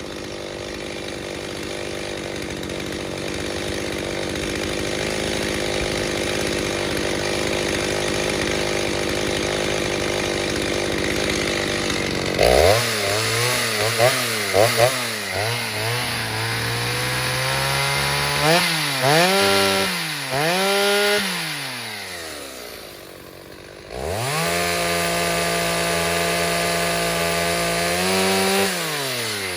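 Stihl 029 chainsaw, freshly rebuilt with a 45 mm cylinder, cutting through wood with a steady, heavy sound for about twelve seconds, then out of the cut: revved up and down several times, dropping back toward idle, then held at high revs for about four seconds before easing off near the end.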